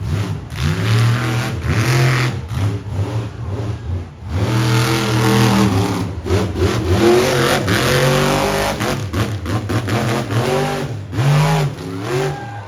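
Monster truck engine revving hard and repeatedly, its pitch rising and falling again and again, with a short drop in level about four seconds in.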